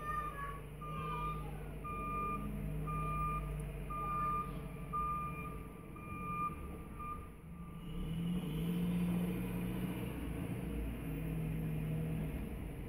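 Snow-clearing vehicle's engine running while its back-up alarm beeps about once a second as it reverses. The beeping stops about seven seconds in and the engine revs up as it drives forward again.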